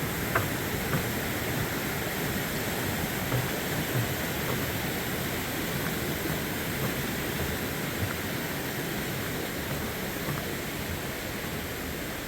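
Mountain stream rushing over rocks: a steady rush of water that eases slightly toward the end.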